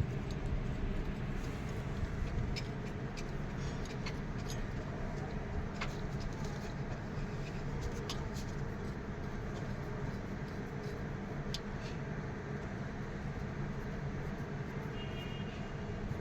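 Excavator's diesel engine running steadily at an even speed, with light clicks and taps over it.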